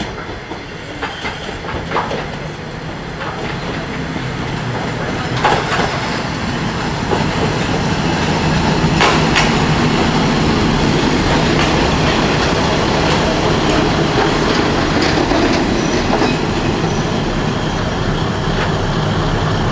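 Shimabara Railway diesel railcar running along the track, its wheels clicking over rail joints, with engine and running noise building over the first several seconds and then holding steady.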